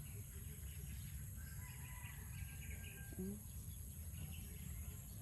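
Faint rural outdoor ambience: small birds chirping softly a couple of seconds in, over a steady high insect drone and low wind rumble.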